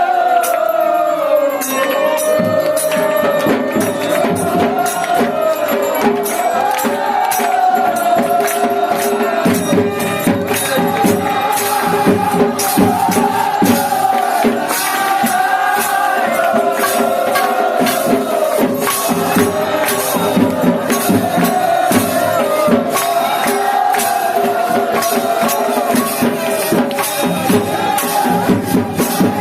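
Devotional aarti music: one held, slowly wavering melody line over steady, rapid clashing percussion.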